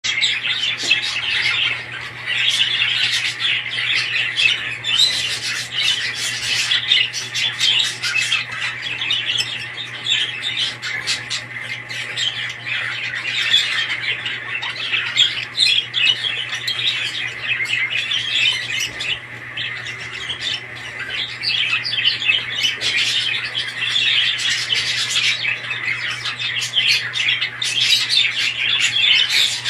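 A flock of small pet parrots chattering and squawking continuously, many calls overlapping, over a steady low hum.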